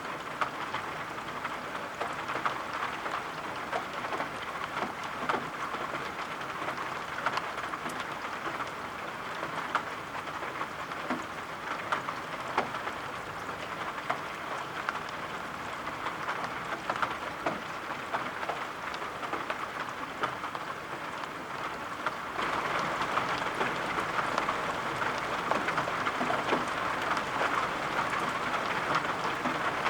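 Steady rain falling, an even hiss dotted with the ticks of individual drops; it turns a little louder about three-quarters of the way through.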